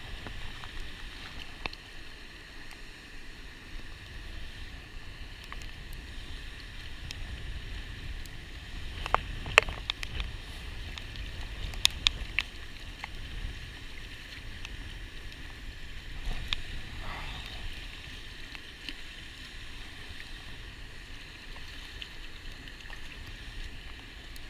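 Steady outdoor noise of wind rumbling on the microphone and light rain hissing, with a few sharp clicks around the middle.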